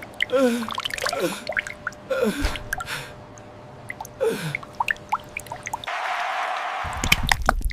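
Cartoon sound effects of thick chocolate dripping and splatting, with short gasps from voices. About six seconds in there is a hissing rush, then a loud low rumble.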